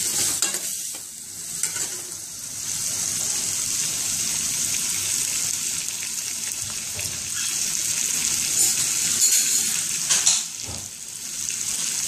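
Onions, peas and curry leaves sizzling in hot oil in a stainless-steel kadhai. They are being stirred with a steel spoon that clinks and scrapes against the pan now and then.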